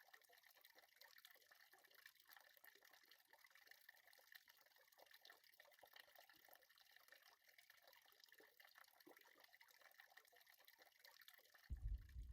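Faint trickling, dripping water, near silence, with small scattered clicks. About a second before the end a sudden low rumble comes in, much louder than the rest.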